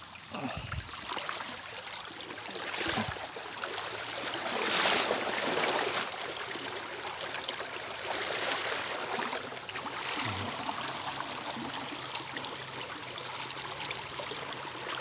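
Water splashing and running as someone moves through shallow floodwater, with louder swells of splashing every few seconds.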